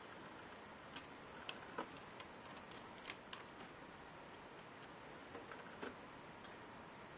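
Light, irregular clicks and taps from hands working on a laptop, over a steady faint hiss.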